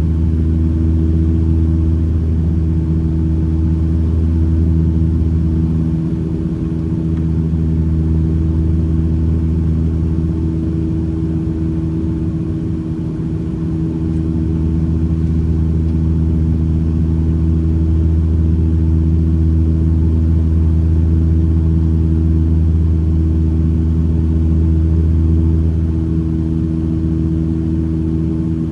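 Aircraft engines droning steadily inside the passenger cabin during the approach: a deep hum with a few steady tones above it. The lowest part of the hum eases off briefly twice, about a fifth and about half of the way through.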